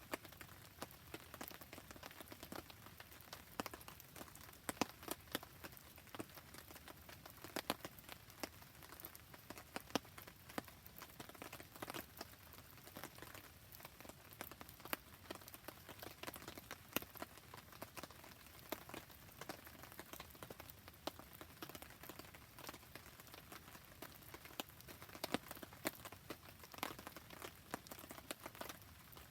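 Steady rain falling, with many irregular sharp crackles and drop hits from a wood campfire and raindrops.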